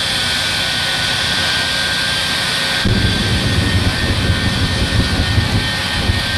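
Shockwave jet truck's three Pratt & Whitney J34 jet engines running with a steady high whine. About three seconds in, a rough, deep rumble suddenly joins the whine and stays.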